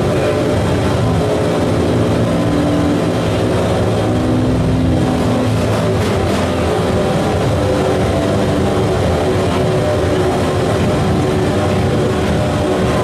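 Harsh noise music: a loud, unbroken wall of dense electronic noise over layered low droning tones, steady in level throughout.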